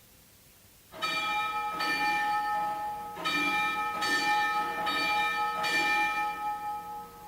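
Bell-like chimes playing a slow tune as a song's introduction: about six struck notes, roughly one a second, each ringing on, beginning about a second in after near silence.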